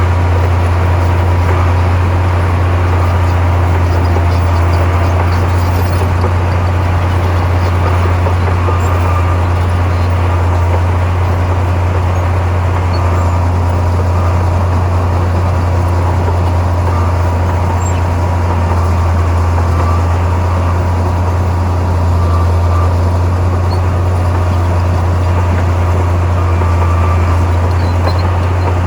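Heavy construction machinery's diesel engine running steadily, a constant low drone with no change in pace.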